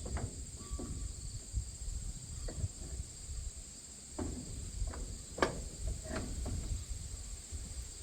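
Scattered metal clinks and knocks, about half a dozen, from a stalk roll and tools being worked into a corn head row unit, over a steady high-pitched chirring of insects.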